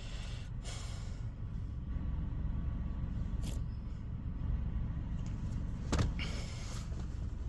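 Ryko Softgloss MAXX 5 soft-touch car wash heard from inside the car: a steady low rumble, with several short bursts of hissing spray on the car and a couple of sharp clicks.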